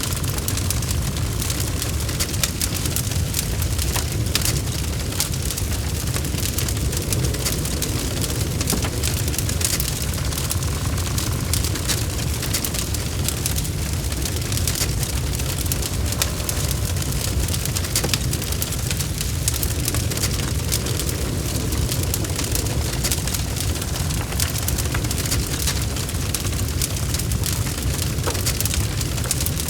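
Burning logs in a fireplace: constant crackling with many small irregular pops over a steady low rumble of the flames.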